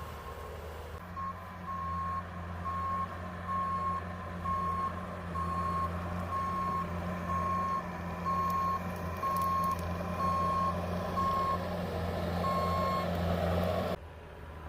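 A vehicle's reversing alarm beeping at an even pace over the steady running of its engine while it backs up. The engine grows a little louder toward the end, then everything cuts off abruptly.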